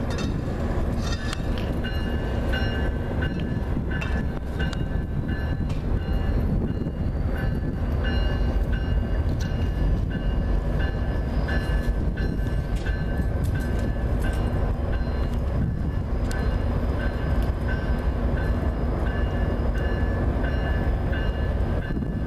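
Rail Runner diesel passenger locomotive running as the train moves through the station toward the listener, with a steady low rumble. Over it a bell-like ring repeats evenly, about one and a half strikes a second.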